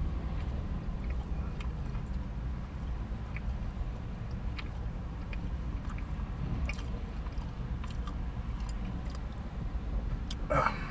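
A man chewing a mouthful of a chicken-and-doughnut sandwich, with small scattered mouth clicks, over a steady low rumble inside the car. A brief voiced sound comes near the end.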